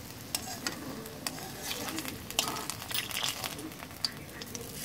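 Rolled taro-leaf rikwach shallow-frying in a little oil in a kadhai: a soft steady sizzle with scattered small crackles and pops.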